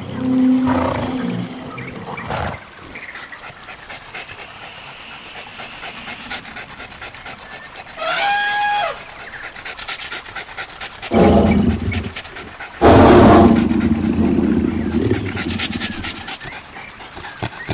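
Cartoon animal sound effects over a fast patter of running footsteps: a call at the start, a short high-pitched call about eight seconds in, and two loud roars around eleven and thirteen seconds in.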